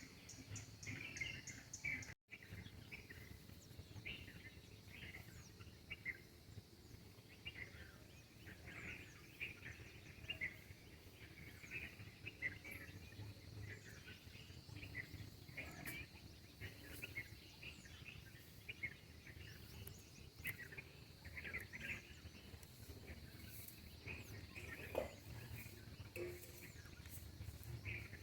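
Birds chirping with many short, scattered calls over faint outdoor background noise and a steady high buzz. The sound cuts out for an instant about two seconds in.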